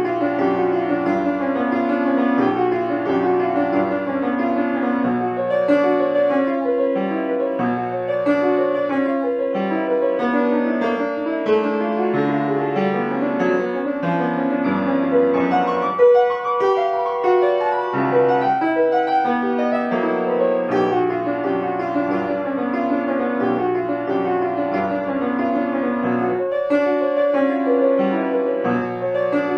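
Solo piano music: held chords with a melody line above them, starting abruptly.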